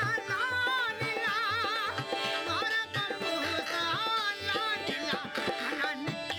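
Live Rajasthani folk music: a sliding, ornamented melody with quick vibrato over a steady low drumbeat of about two beats a second.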